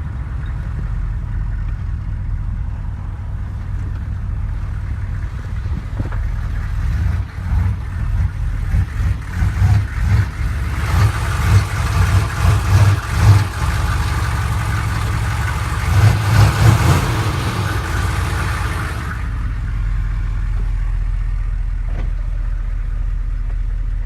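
1993 Chevy 1500's 6.5 L Detroit turbo diesel running. In the middle the engine note swells and falls again and again for several seconds, with a hiss for much of that stretch, then it settles back to a steady idle.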